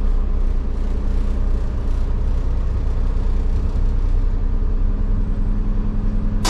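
Steady low rumble of a moving train heard from inside the carriage, with a constant low hum over it.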